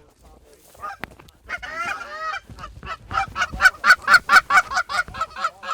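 Canada geese honking. A jumbled burst of calls comes first, then a rapid run of loud honks at about five a second.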